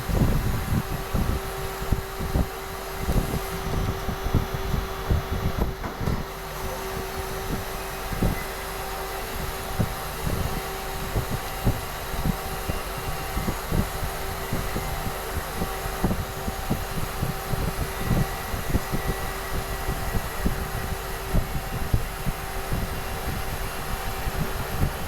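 Doosan CNC machine running with a steady hum, under irregular low thumps.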